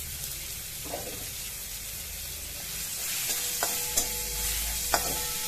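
Chopped onion sizzling in hot oil in a steel kadai, stirred with a metal spatula. From about three and a half seconds in, the spatula strikes the pan three times with sharp clicks, and the pan rings faintly.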